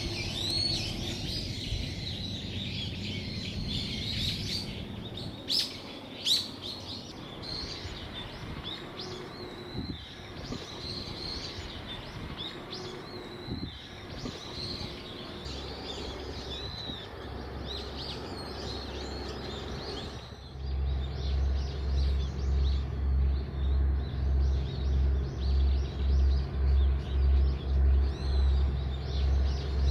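Songbirds chirping and trilling in an evergreen forest. About two-thirds of the way in, a loud low rhythmic pulsing, roughly one and a half beats a second, starts and takes over.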